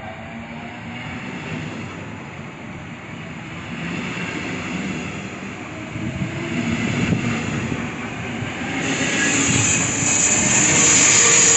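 Double-deck push-pull passenger train rolling past along the platform, driving trailer first, its wheels rumbling on the rails and growing louder. A strong hiss comes in over the last few seconds as the locomotive at the rear draws near.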